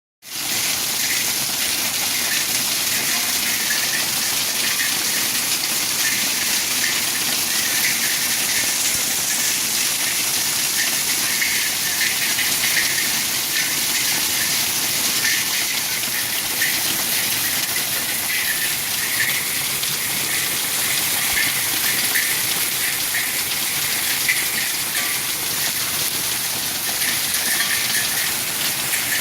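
Hail pelting down in a storm: a dense, steady hiss with many small hits.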